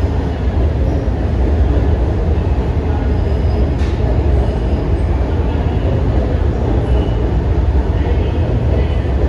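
Sydney double-deck electric suburban train running along an underground station platform: a steady, loud low rumble of wheels and running gear, echoing in the enclosed platform.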